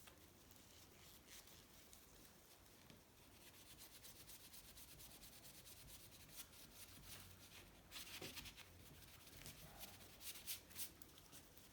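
A knife blade being sharpened: faint, repeated rubbing strokes of the blade, a little louder about eight seconds in and again near the end. The blade's edges were burred from prying apart aluminium engine cases.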